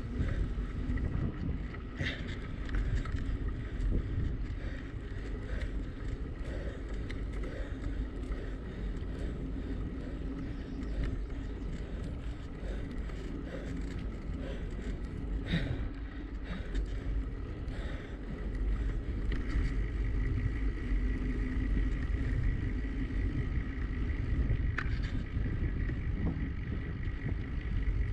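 Wind rumbling over an action camera's microphone during a bicycle ride, with steady tyre and road noise underneath. A few sharp knocks come through, one a couple of seconds in, one about halfway and one near the end.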